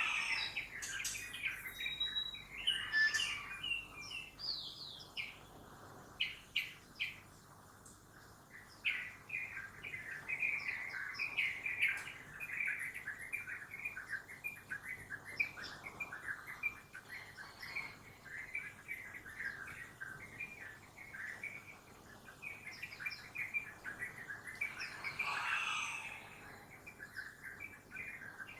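A chorus of many birds chirping and twittering, with a dense run of short, sharp notes and calls overlapping throughout. A faint low hum of city noise lies underneath.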